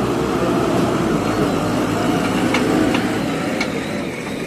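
Diesel engine of heavy farm machinery running steadily, with a few sharp clicks or knocks in the second half.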